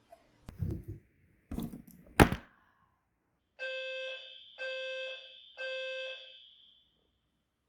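A few knocks and handling sounds ending in a sharp click, then an appliance's electronic beeper sounding three long beeps about a second apart.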